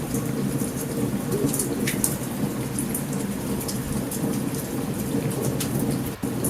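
Heavy thunderstorm: steady rain with a continuous low thunder rumble, and scattered sharp pops on top.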